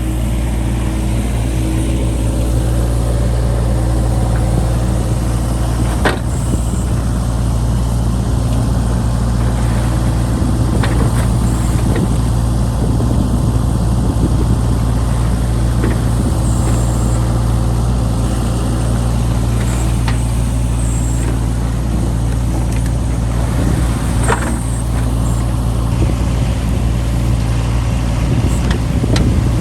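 John Deere 60G mini excavator's diesel engine running steadily under hydraulic work, with a few sharp knocks.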